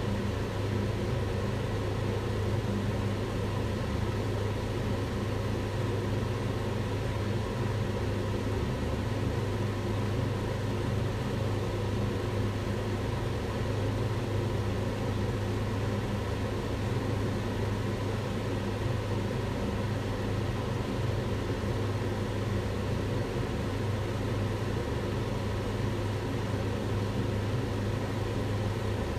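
Kitchen extractor hood fan running steadily: an even rushing of air with a low hum and a few faint steady tones.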